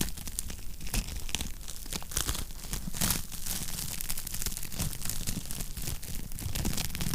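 Wood fire crackling in a fireplace: a dense, steady run of small pops and snaps over a low rumble of flames, with a louder snap about three seconds in.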